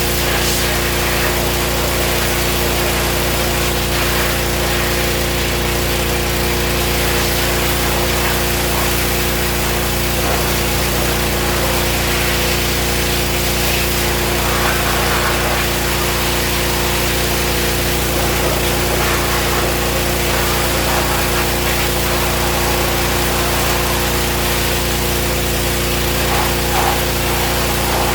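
A motor-driven machine running steadily and without a break: a constant hum with a broad hiss over it.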